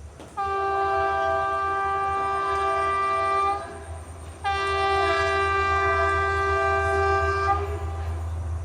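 Train horn sounding two long blasts of about three seconds each, a chord of several steady tones, over the low rumble of the train.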